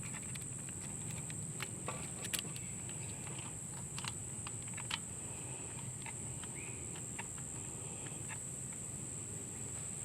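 Scattered small clicks and taps as a refrigerant gauge hose is fitted onto a vacuum pump's port, over a steady high-pitched insect drone.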